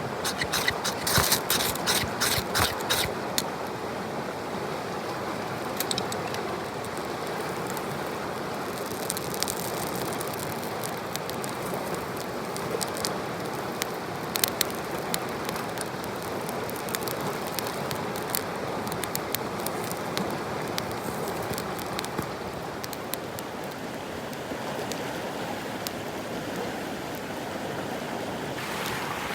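Mountain stream flowing steadily. A quick run of sharp clicks or taps comes in the first few seconds, with scattered single clicks later.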